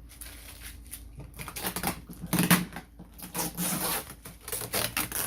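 Tape being peeled off a part, a run of crackly tearing and rustling bursts, loudest about halfway through.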